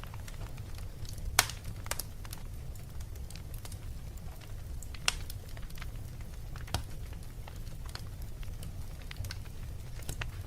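Wood fire in a fireplace crackling: a steady low rumble with scattered sharp pops, the loudest about a second and a half in.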